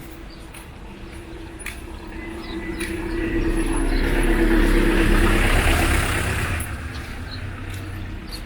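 A motor vehicle passing close by: its engine hum and tyre noise swell over a few seconds, are loudest about halfway through, then fade away.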